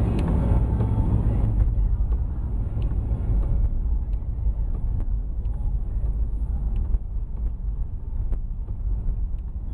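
Car driving on slushy, snow-covered streets: a steady low rumble of tyres and engine, a little louder for the first second or so, with a few faint ticks.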